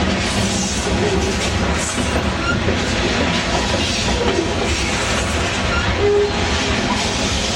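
Freight train of covered hopper cars rolling past at a steady pace: a continuous rumble and rattle of steel wheels on the rails, with a few short, faint squeaks.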